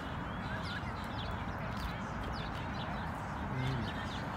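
Small birds chirping in many short, quick notes over steady outdoor background noise.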